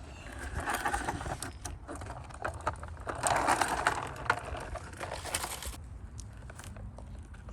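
Plastic toy truck rolling and rattling over a hard surface, with scattered clicks from the toys knocking together, in two rough stretches about a second and three seconds in.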